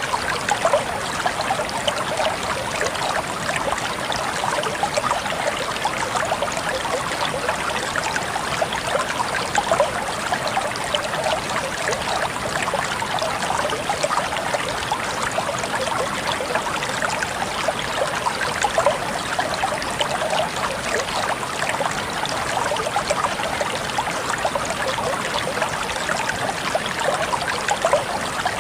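Water flowing steadily in a stream, with a continuous rushing and fine splashing that never lets up.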